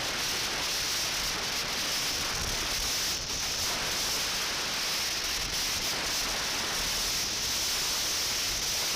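Wind noise on the bare, unshielded microphone of a Drift Ghost 4K action camera on a moving bicycle: a loud, steady rush that buries everything else. It cuts in and out abruptly.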